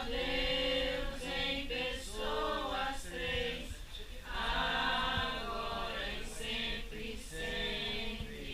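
A group of voices singing a devotional chant together, in long held phrases with brief breaks between them.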